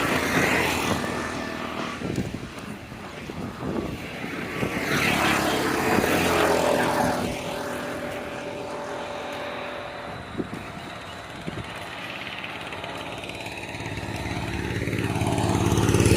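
Motor vehicles passing on a road: steady engine hum with a swell as each goes by, and one approaching, growing louder, near the end.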